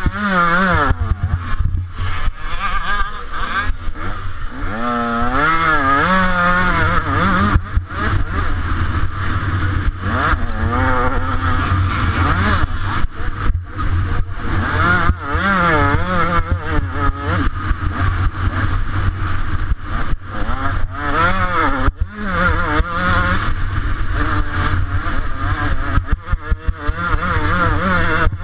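125cc two-stroke motocross bike engine run hard, revving up and backing off over and over, its pitch climbing and dropping with throttle and gear changes.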